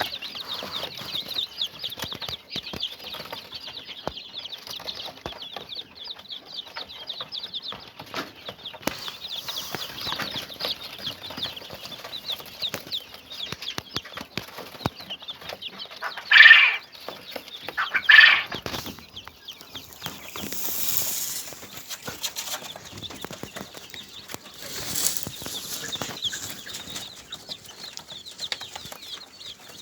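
Domestic birds in their pen chirping and calling continuously, with two short, loud calls about 16 and 18 seconds in and a couple of rustling bursts later on.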